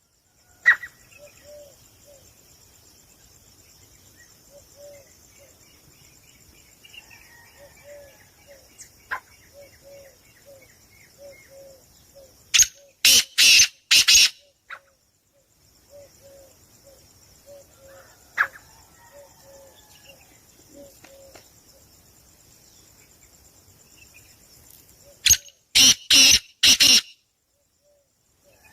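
Caged pet birds calling: a steady high-pitched chatter with repeated short low chirps and a thin trill. Twice it is broken by a run of three or four very loud, harsh bursts.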